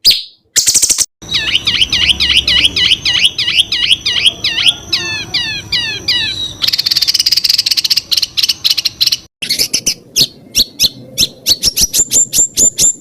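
Songbird song in fast, rapid-fire bursts (the 'tembakan' phrases of Indonesian song-contest birds). First comes a run of quick sweeping whistles at about four a second, then a few falling slurs, then a dense buzzy trill, and then a fast series of sharp notes. The phrases are joined by abrupt cuts.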